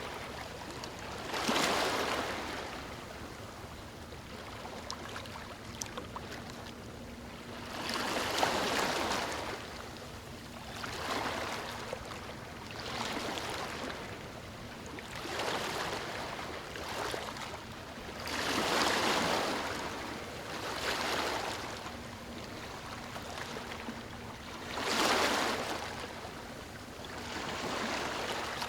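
Ocean surf washing onto a beach: waves break and swell into a rush of hiss, then fade, one every two to six seconds, over a steady background wash.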